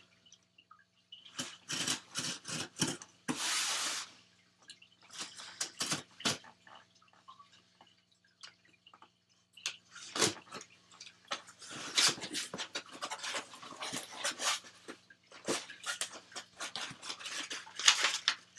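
A shipping package being opened by hand: irregular bursts of rustling, crinkling and tearing of packaging and packing paper, with short pauses between.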